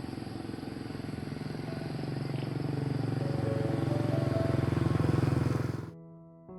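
Motorbike engine running, growing louder with its pitch rising as it speeds up, then cut off suddenly near the end.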